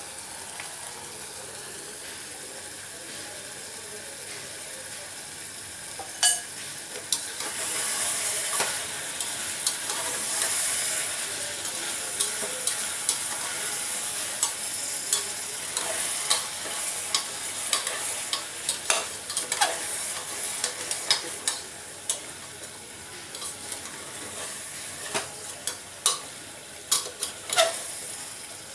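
Chicken kosha frying in a pan, the oil and spiced masala sizzling while a spatula stirs and scrapes it, knocking against the pan. The sizzle is quieter for the first several seconds and grows louder about a quarter of the way in; the spatula knocks come often through the rest. This is the spiced chicken being cooked down until it is nearly done.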